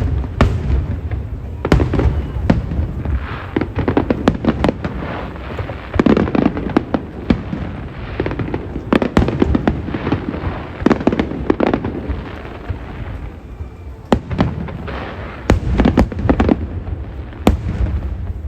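Aerial fireworks bursting in rapid succession: sharp bangs, often several close together, mixed with stretches of dense crackling.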